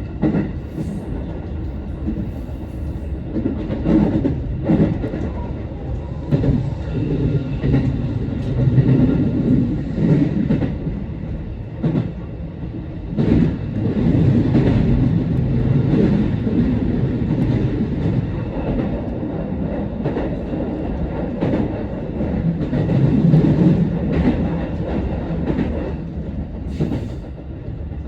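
Electric commuter train running between stations, heard from behind the driver's cab: a steady rumble of wheels and motors, with scattered clacks as the wheels pass over rail joints.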